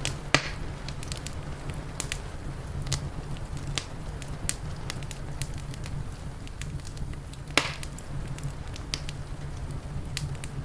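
Wood fire crackling, with irregular small snaps and two louder pops, one about half a second in and one about three quarters of the way through, over a steady low rumble.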